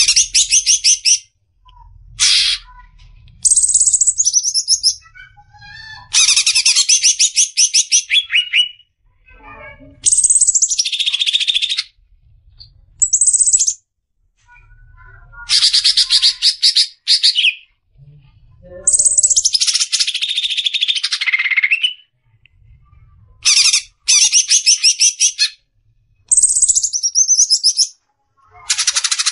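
Green leafbird (cucak ijo) singing its fast 'besetan' song: bursts of rapid, high trilled notes and sliding whistles, each one to three seconds long, with short pauses between.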